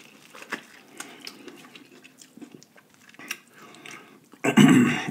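A person biting and chewing corn on the cob, with many small wet clicks and crunches. A voice starts near the end.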